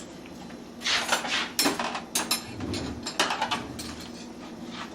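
Dishes and cutlery knocking and clattering as a dishwasher is unloaded and put away, in a handful of sharp knocks, with a short low rumble near the middle.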